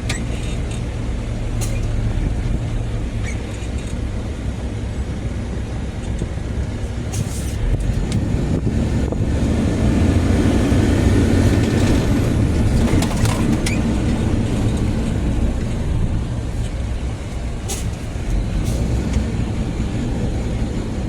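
Steady road noise of a moving car, heard from inside the cabin: engine and tyre rumble, getting louder for several seconds around the middle.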